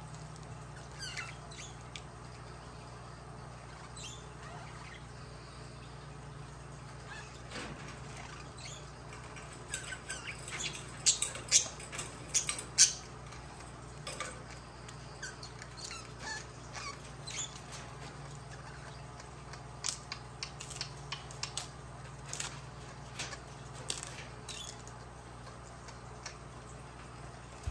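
Budgerigars chirping and chattering in short, sharp calls, busiest with a cluster of louder squawks around the middle.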